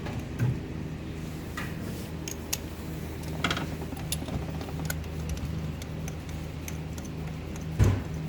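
Scattered light metallic clicks and taps from hand tools over a steady low hum, with one heavier knock near the end.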